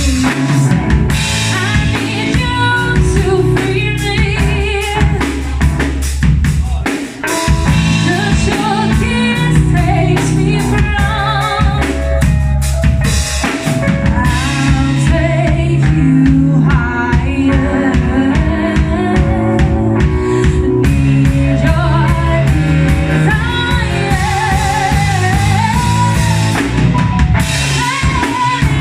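Live band playing a song: drum kit with kick and snare, bass and a singer's voice, with a short drop in the drums about seven seconds in.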